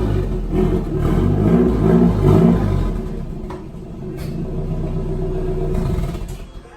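Nissan 240SX's four-cylinder engine revving through a muffler-deleted exhaust with homemade blast pipes: several quick blips of the throttle, then settling to a steadier, lower running note that fades near the end.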